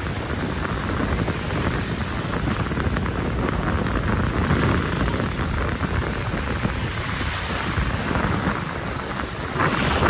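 Wind buffeting the microphone over the steady wash of ocean surf, a constant rumbling hiss.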